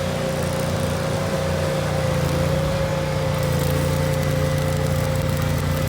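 A motor running steadily with a constant-pitched hum.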